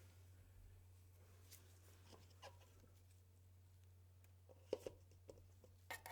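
Near silence over a steady low hum, broken by a few faint, scattered taps of metal spatulas on an ice cream roll cold plate, a small cluster a little before five seconds in and another near the end.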